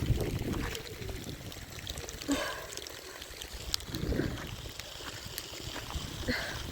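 Rain with water running and trickling, a low rumble of wind on the microphone, and scattered light knocks.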